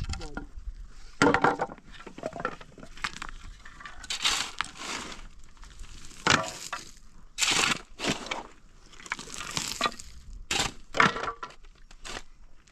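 Irregular crunching and cracking sounds, a series of short bursts with pauses between, as of something being broken or handled by hand.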